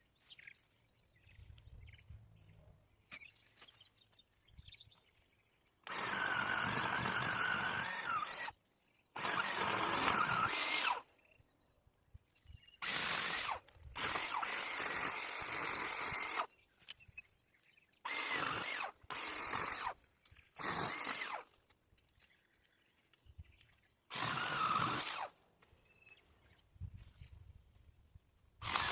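Battery-powered extending pole chainsaw cutting branches in short bursts: the motor and chain run for one to two and a half seconds at a time, about eight times, starting about six seconds in, and stop dead each time the trigger is released.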